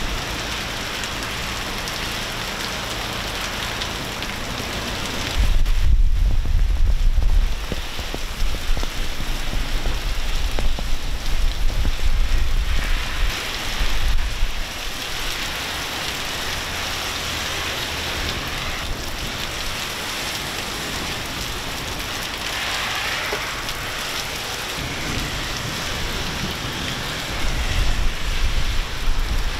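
Heavy rain and hail pouring down and drumming on surfaces in a thunderstorm: a dense, steady hiss. Two louder spells of deep low rumbling come through it, about five seconds in and again near the end.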